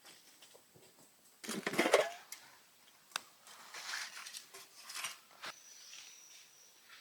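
Food-preparation handling noises: a short, loud clatter about a second and a half in, then scattered clicks and softer rustling.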